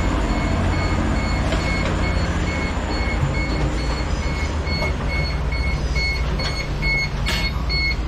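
Trains running at a station platform, a steady low rumble, with a high electronic beep repeating evenly about two or three times a second from about two seconds in and a short click near the end.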